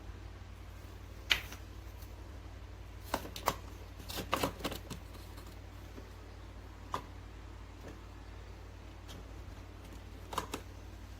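Scattered sharp clicks and taps, a cluster about three to five seconds in, over a steady low hum, from a Keurig K-Duo coffee maker being handled and operated.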